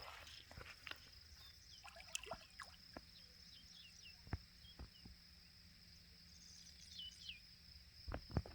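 Faint shoreline ambience: a steady high insect drone with short falling bird chirps, and a few soft clicks and knocks scattered through it.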